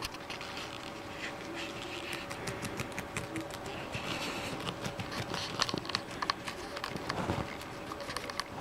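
Guinea pigs crunching cabbage leaves: a rapid, irregular run of small crisp clicks, over a faint steady hum.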